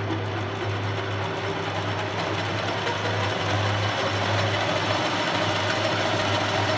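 Sheldon WM56P metal lathe running with its spindle turning, a steady mechanical hum and whir that grows slightly louder as the variable-speed drive raises the spindle speed.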